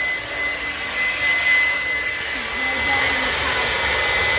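Hand-held hair dryer running steadily: a rush of air with a thin, steady high whine, getting louder about three seconds in.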